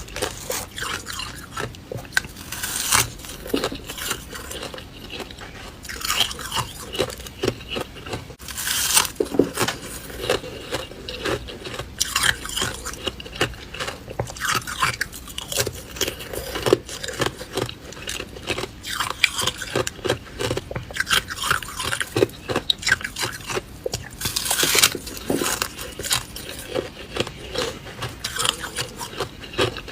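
A person biting and chewing hard ice close to the microphone: a continuous run of irregular crunches and cracking, with several louder bites breaking through.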